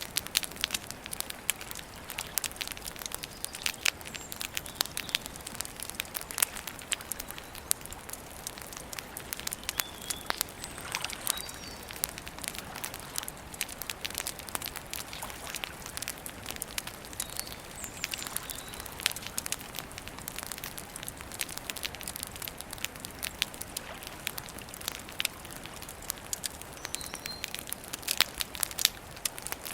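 Campfire crackling: a dense, irregular run of sharp pops and snaps from burning wood over a steady hiss.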